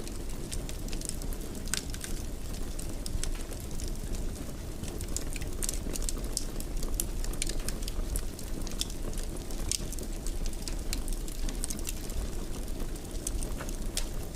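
Fire crackling in a fireplace: a steady low rumble of burning with frequent irregular sharp pops and snaps.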